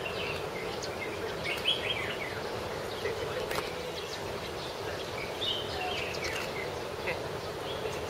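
Birds calling: scattered short chirps and calls, some sliding down in pitch, over a steady background hum.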